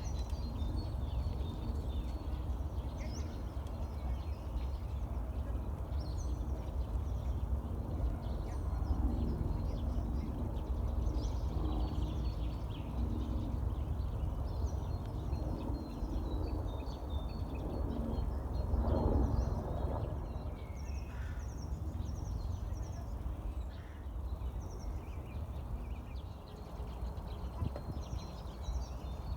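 Small birds chirping and ducks calling, over a steady low rumble.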